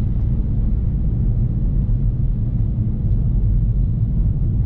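BMW F30 335i's turbocharged N55 inline-six running steadily under light load while driving uphill through deep snow, a constant low drone with no rise or fall in pitch, mixed with rumble from the tyres in the snow.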